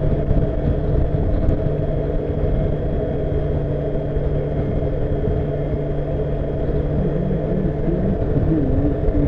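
Honda CBF motorcycle engine running at a steady cruising speed under low wind rumble, its note wavering briefly in pitch near the end.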